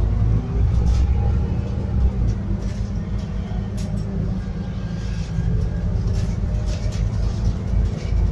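Inside a Scania N280UD biogas double-decker bus on the move: a steady low engine and drivetrain drone, with scattered short rattles from the cabin.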